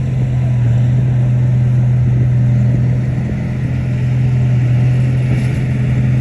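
Heavy earthmoving machine's diesel engine running at a steady low pitch, with a slight dip in loudness around the middle.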